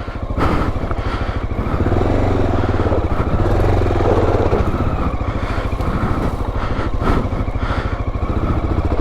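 Motorcycle engine running steadily as the bike is ridden over a dirt trail. It picks up just after the start, and there are a few short knocks along the way.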